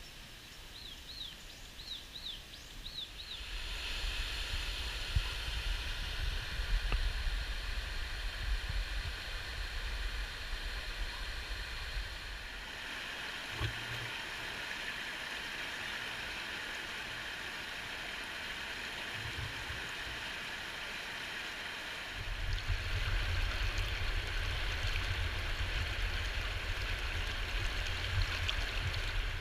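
Steady rush of flowing river water, with a low rumble of wind on the microphone in parts. A few short high chirps sound in the first seconds, and the sound shifts abruptly twice.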